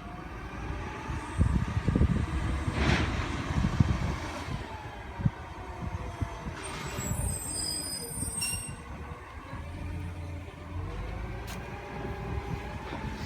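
Refuse truck running: a low diesel rumble with a whine that rises and falls, and two short hisses of air, about three and seven seconds in.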